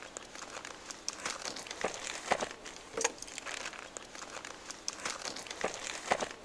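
Parcel packaging crinkling and rustling as it is handled and opened, in irregular crackles with a few sharper snaps.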